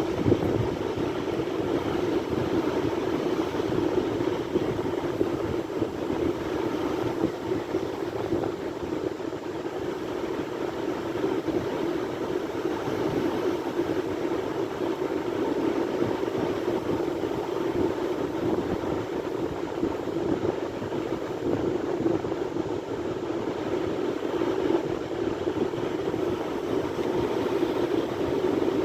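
Sea waves breaking continuously: a steady rush of surf that swells and eases gently, with no single wave standing out.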